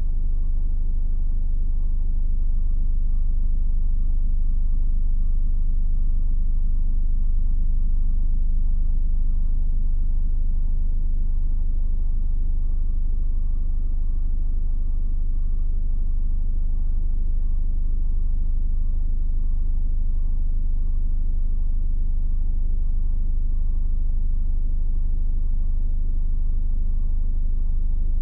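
Mercedes Actros truck driving, a steady low rumble of diesel engine and road noise that holds an even level without changes.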